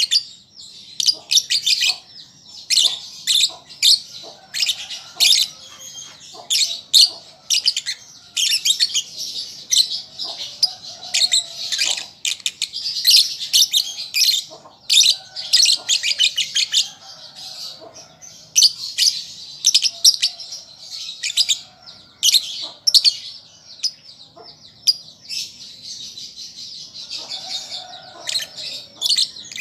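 Young lovebird chattering in rapid, shrill chirps, in runs of a second or two with short pauses between: a juvenile lovebird practising its song.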